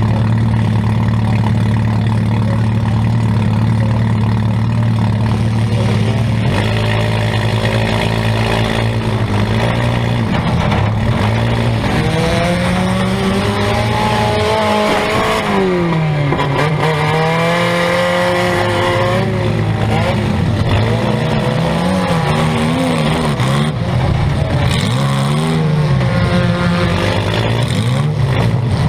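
Compact demolition derby car's engine heard from inside the stripped cab. It idles steadily for the first few seconds, then revs up and down repeatedly as the car drives off, with its biggest climb in pitch about halfway through.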